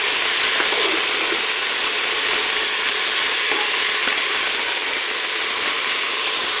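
Chopped bottle gourd sizzling steadily in hot oil with cumin and chillies in a pressure cooker base as it is stirred.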